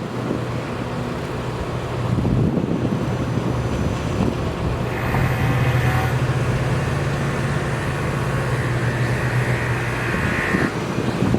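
Motor vehicle engine running steadily with a low hum and rumble. A higher hissing whine joins it about five seconds in and stops shortly before the end.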